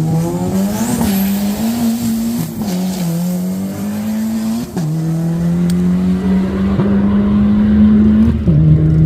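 Turbocharged 1999 Hyundai Accent four-cylinder at full throttle on a drag-strip pass. The engine pitch climbs in each gear and drops at each upshift, three or four shifts in all.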